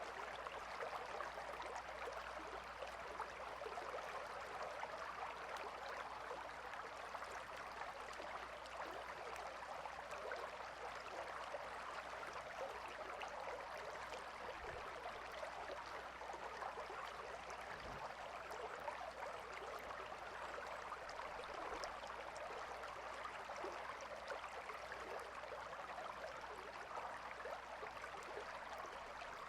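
A calm river's water flowing and babbling steadily, an even rushing with fine busy detail and no change over the whole stretch.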